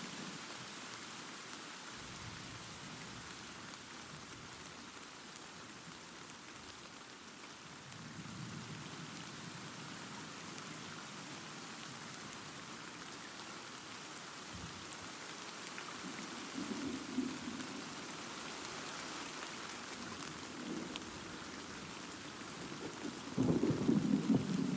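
Steady rain hissing, with distant thunder rumbling low beneath it in several slow swells; the loudest roll of thunder builds near the end.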